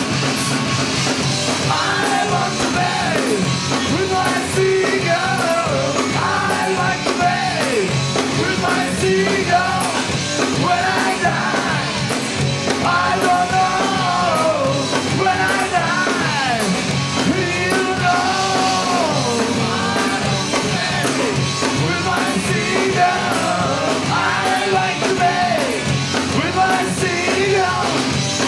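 Loud rock music, a band with a sung line that bends up and down in pitch but has no clear words.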